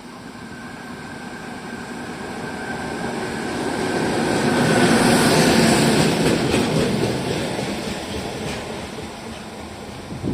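A train passing by: it grows louder to a peak about halfway through, then fades. A high whine sounds in the first half, and a run of wheel clacks over rail joints follows as it goes past.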